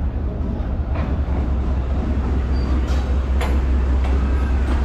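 Steady low rumble of a train at a station platform, with about five short sharp knocks scattered through it.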